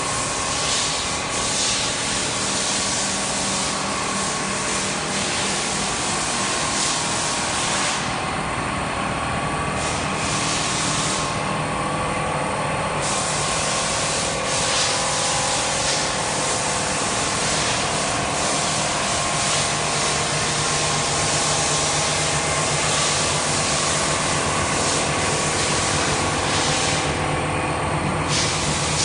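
Automatic pole welding machine at work: a steady loud hiss over a constant machine hum. The hiss drops away briefly three times while the hum carries on.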